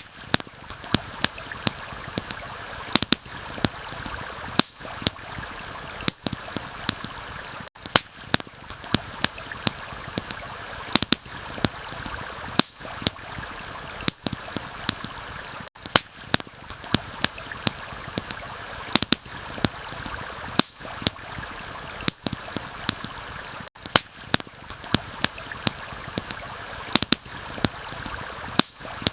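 Steady rush of a flowing stream with a campfire crackling over it, irregular sharp pops and snaps from the burning wood.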